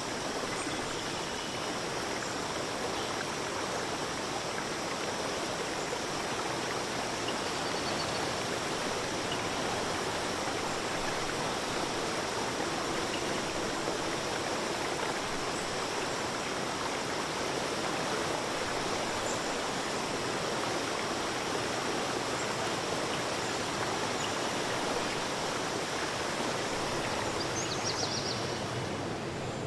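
Steady rushing of a forest stream, with a few faint high chirps near the end.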